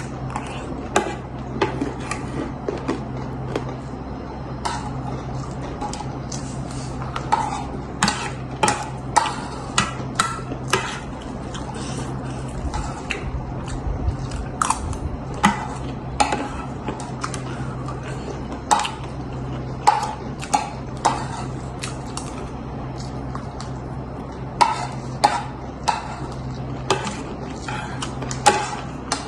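Spoons clinking and scraping against bowls of chatpate while it is eaten: irregular sharp clinks, some ringing briefly, over a steady low hum.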